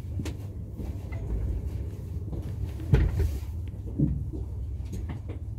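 Passenger train rolling slowly into a station, heard from inside the carriage: a steady low rumble with scattered knocks and one loud thump about three seconds in.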